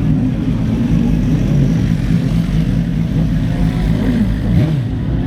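Motorcycle engine running steadily at low revs close to the microphone, with a brief rise and fall in pitch about four and a half seconds in.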